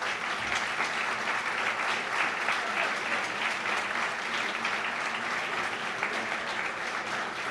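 Audience applauding steadily in a large room, a dense patter of many hands clapping that thins slightly near the end.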